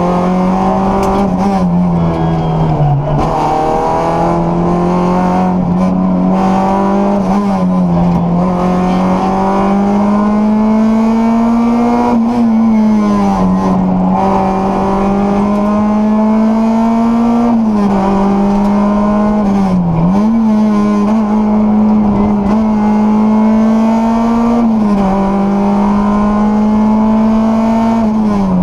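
Rally car engine at high revs heard from inside the cockpit, driving hard through a stage. The pitch climbs steadily and then drops sharply about half a dozen times as the driver changes gear and lifts for bends.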